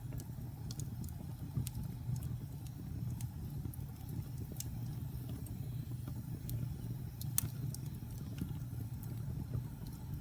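Wood fire crackling in a fireplace: a steady low rumble with scattered sharp crackles and pops, one louder pop about seven seconds in.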